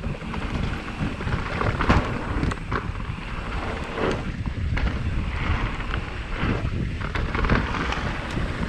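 Wind buffeting the microphone of a helmet camera on a mountain bike riding down a trail, with tyre noise on dirt and a few sharp knocks and rattles from the bike over rough ground.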